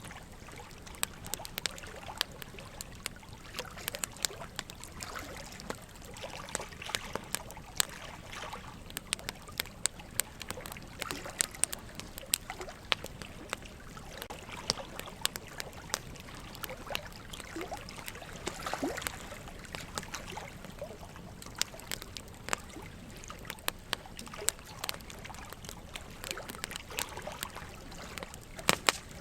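Wood fire crackling, with frequent sharp irregular pops and snaps, over a steady trickle of running water.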